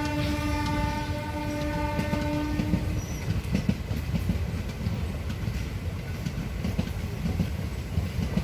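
Train horn sounding one steady long blast that cuts off about two and a half seconds in, followed by the rumble and rapid clatter of the train's wheels running over the rail joints.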